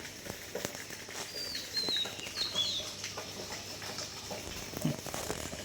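Bird chirping: a quick run of short, high, wavering chirps between about one and three seconds in, over steady background noise and faint clicks.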